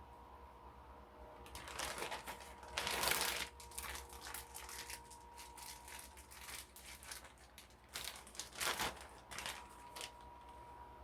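Irregular crinkling and rustling, loudest about three seconds in, from food being handled while breaded chicken legs are laid out on a pan.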